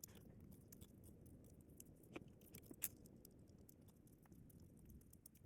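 Near silence: faint room tone with a few soft clicks, the clearest about two seconds in and again near three seconds.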